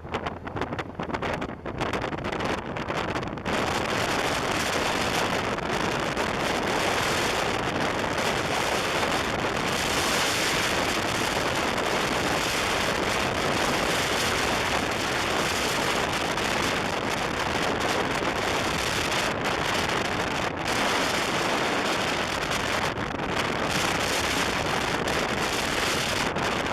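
Steady wind noise buffeting a camera microphone on a moving motorcycle, a rushing hiss with no clear engine note. It comes and goes for the first few seconds, then settles to a constant level about three and a half seconds in.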